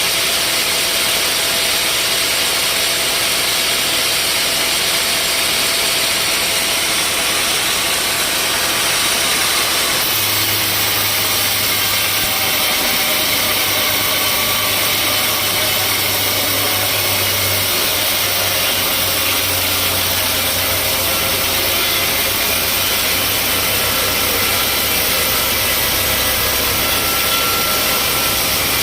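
Sawmill machinery running steadily, a loud engine-like drone with a strong hiss. About ten seconds in the sound changes and a low hum joins it.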